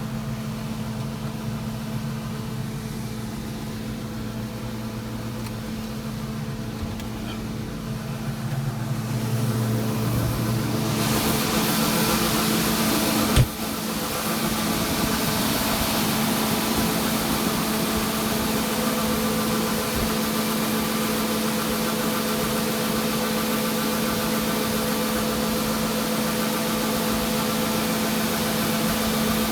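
Farm tractor engine running steadily, heard from the cab. About ten seconds in it gets louder and takes on more hiss, with a single sharp click a few seconds later, then it runs on at that higher level.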